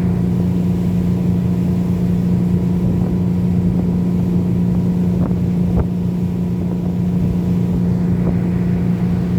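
Motor boat's engine running steadily at constant speed, with a steady hum, on a test run after engine repairs. A couple of faint ticks come about halfway through.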